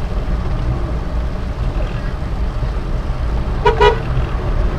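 Steady low rumble of the Suzuki Carry Futura's 1.0-litre engine and road noise while driving, with two quick horn toots about three and a half seconds in.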